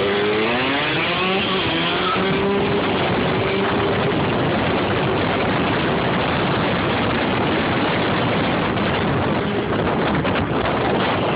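A vehicle engine accelerating hard, its pitch climbing over the first few seconds. It then gives way to a loud, steady rush of wind and road noise at speed.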